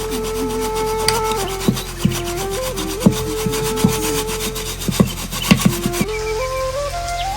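Background music: a flute playing a slow melody of long held notes that step up and down, with a few sharp knocks scattered through it.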